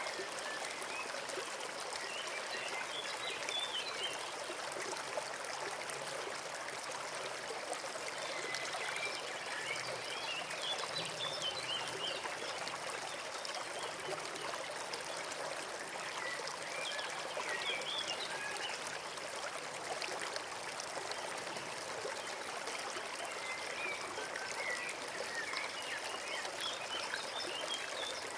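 Forest stream running steadily, with a small bird singing short chirping phrases about every seven seconds, four times in all.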